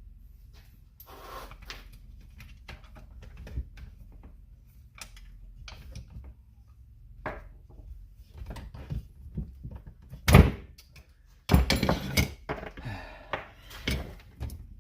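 Workshop handling noises from chainsaw parts and tools being worked by hand: scattered light clicks and knocks, one sharp knock about ten seconds in, then a second of rattling scrape.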